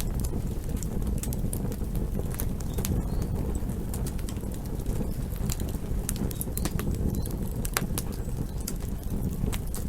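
Campfire burning: a steady low rush of flames with frequent sharp crackles and pops from the burning wood, scattered irregularly.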